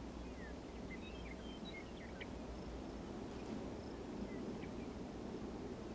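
Faint open-air grassland ambience: a low steady hum under scattered faint, short high chirps.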